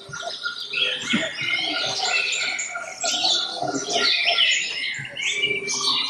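Songbirds singing: a dense, continuous run of quick chirping and warbling phrases, several overlapping at once.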